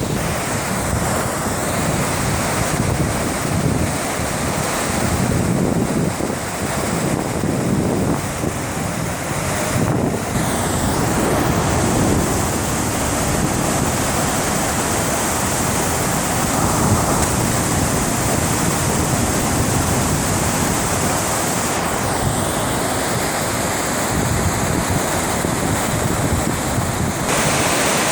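Steady rush of water pouring over a dam, with wind buffeting the microphone.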